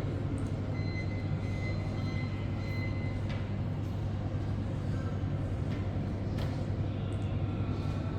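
Jet airliner engines: a steady low rumble with a faint high whine over it for the first few seconds.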